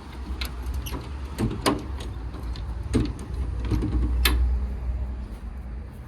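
Fire truck compartment doors and latches being handled: a handful of sharp clicks and clunks, the loudest a little past four seconds in, over a steady low rumble.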